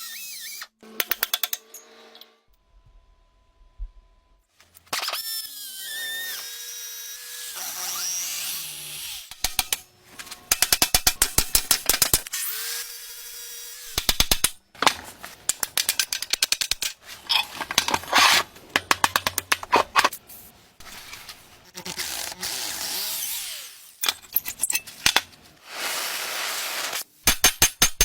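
A string of short workshop sounds from restoring rusty forklift parts: power tools running in brief bursts, some spinning up in pitch, with rapid clicks and metal knocks between.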